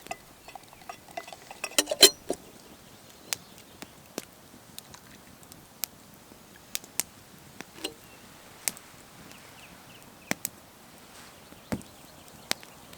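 Irregular light clinks and clicks of small hard objects being handled, with a quick cluster of them about two seconds in.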